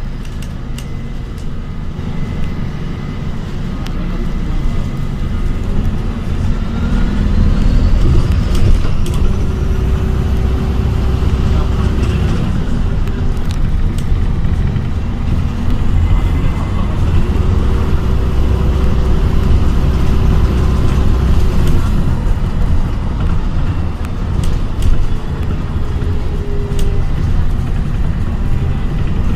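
Inside an ADL Enviro 400 hybrid bus with a BAE Systems HybriDrive drivetrain, on the move: a steady low rumble of drivetrain and road noise. It grows louder a few seconds in, and a steady hum comes in twice for a few seconds each time, with scattered rattles and clicks.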